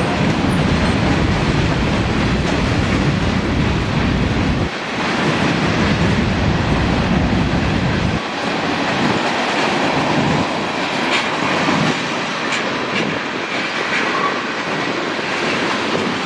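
Freight train rolling past, loud and steady, its cars rumbling and steel wheels clicking over the rail joints; the low rumble drops away about five seconds in and again about eight seconds in.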